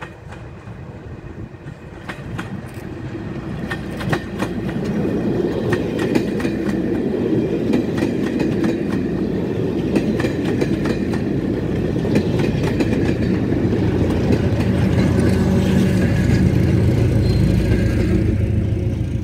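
Diesel-hauled passenger train of maroon coaches passing close by. It rumbles steadily, with repeated clicks of wheels over rail joints, and a deeper rumble swells near the end.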